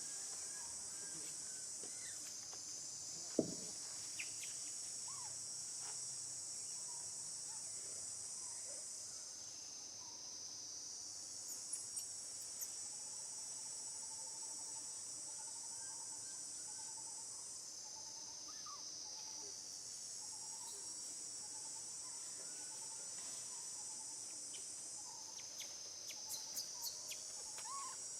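A steady high-pitched chorus of insects that fades and swells a few times, with faint scattered chirping calls beneath it. A single sharp click comes about three seconds in.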